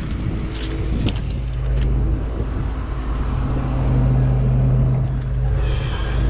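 Kobelco 210 excavator's diesel engine running under load as the machine travels on its tracks: a steady low drone that swells about four seconds in, with a few light clanks in the first two seconds.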